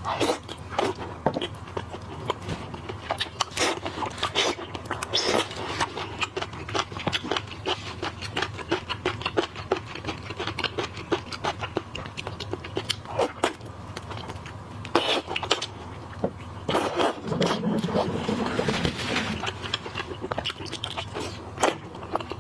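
Close-miked eating sounds of boiled seafood: a dense, irregular run of crackling clicks, wet smacks and chewing.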